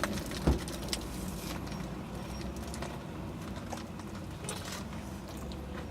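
Faint chewing of a mouthful of fried-chicken sub, with small wet clicks and a louder knock about half a second in, over a steady low hum.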